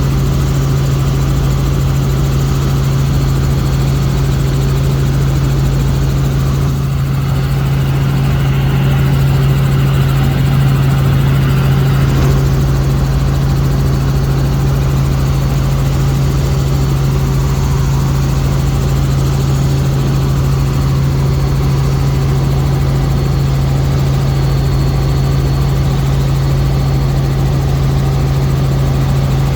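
Helicopter in flight: a loud, steady drone of engine and rotors that holds even throughout.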